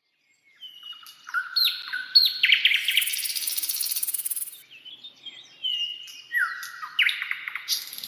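Birds chirping and whistling: quick runs of short whistled notes, with a loud buzzy rattling call in the middle. The same run of calls comes twice.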